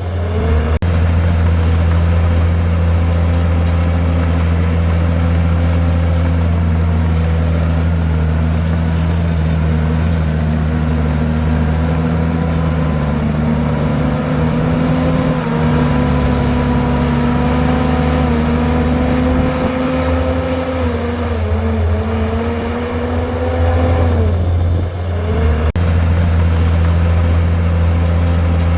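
Komatsu bulldozer's diesel engine running steadily at working revs as it pushes soil and rock. The engine pitch sags twice under load, about three quarters of the way through, then comes back up.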